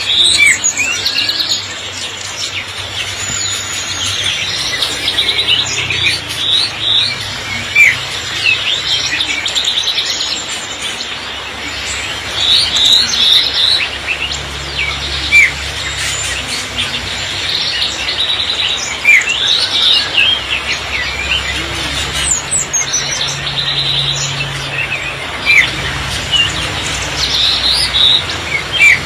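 Many songbirds chirping and calling at once, short rising and falling whistles overlapping throughout, over a steady background hiss.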